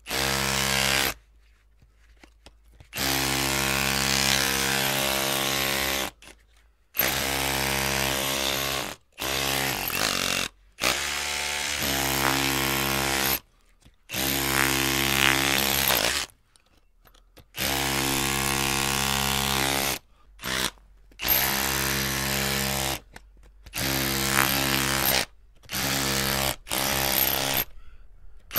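Electric drill run in repeated trigger bursts, each about one to three seconds long, with brief silent gaps as the motor stops and starts again.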